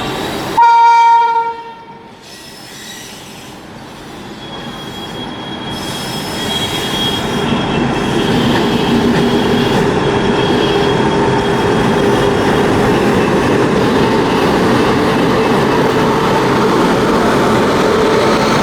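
A short loud locomotive horn blast about a second in, then an express train with LHB coaches rolling in: the rumble of wheels on rail builds over several seconds and holds steady, with faint thin wheel squeal over it.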